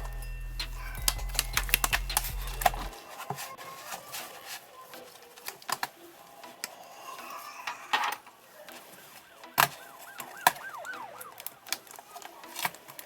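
Irregular sharp clicks and taps of small tools on a laptop's plastic and metal parts during disassembly, with low background music that stops about three seconds in.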